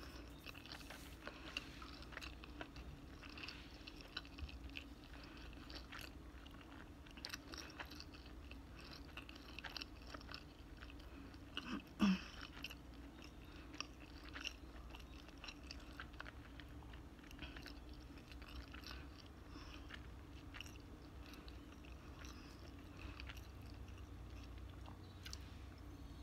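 A person chewing pizza close to the microphone: quiet, irregular wet clicks and smacks of the mouth, with one brief louder sound about halfway through.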